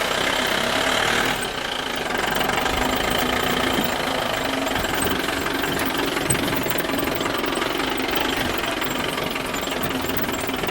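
A small engine running steadily with a rattly, knocking note.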